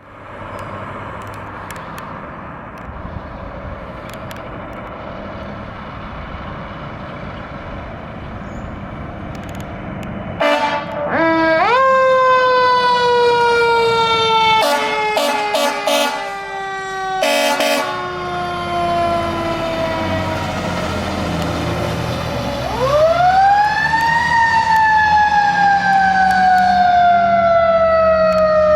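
Fire engine-tanker on an emergency response: its engine runs for about the first ten seconds. Then come several air horn blasts and a siren that winds up and slowly falls. The siren winds up a second time about three quarters of the way through and slowly falls again.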